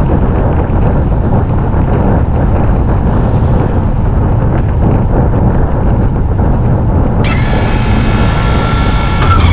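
Heavy wind buffeting on an action camera's microphone as the bike rides along at speed. About seven seconds in, a high-pitched squeal with several overtones starts and stops abruptly about two seconds later.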